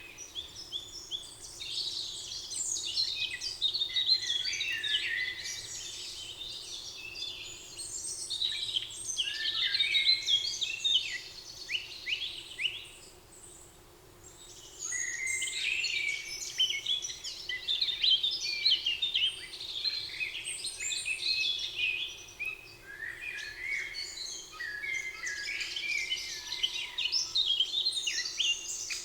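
Several songbirds singing together in a dense, overlapping chorus of quick chirps and trills, with a short lull about halfway through.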